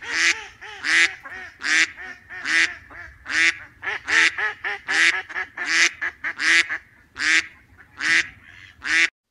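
Waterfowl calling, with loud honking calls about once a second and quieter calls in between from more birds, cut off abruptly near the end.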